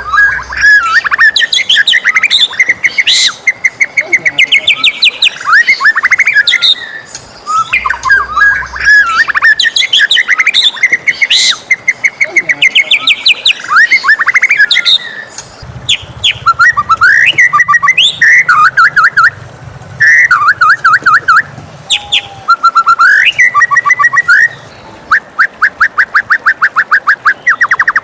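White-rumped shama singing a loud, varied song of whistled phrases, rapid trills and sweeping notes in short bursts, ending with a fast run of repeated notes, about seven a second.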